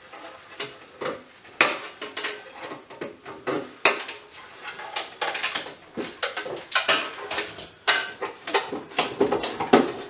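Irregular clinks, knocks and clatter of metal parts and hand tools being handled as scrap is taken apart.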